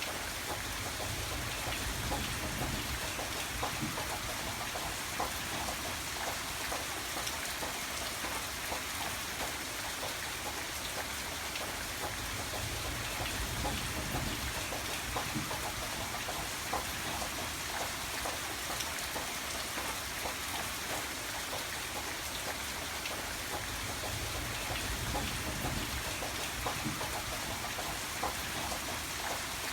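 Steady rain falling, many drops pattering on a surface, with a low rumble underneath that swells and fades a few times.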